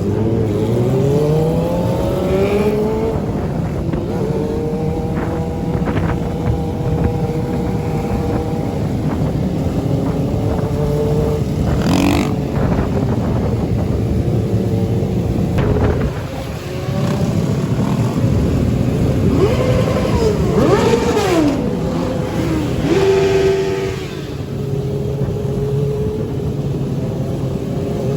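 Motorcycle engines running and revving during a ride, pitch climbing and dropping again and again as they accelerate and shift, with more than one engine heard at once for a moment past the middle.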